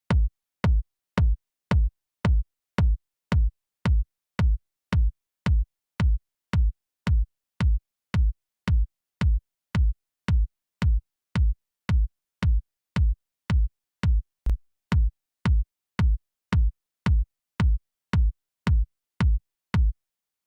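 Electronic kick drum sample from FL Studio playing a steady four-on-the-floor loop, about two hits a second, each a deep thud with a short click on top. It stops shortly before the end.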